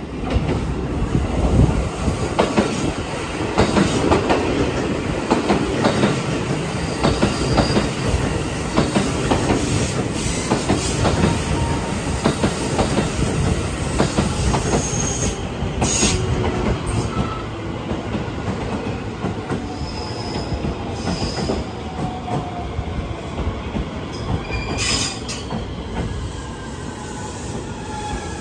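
JR West 223 series electric train running into the platform: wheels clattering over rail joints with some squealing from the wheels, and a falling whine near the end as it slows.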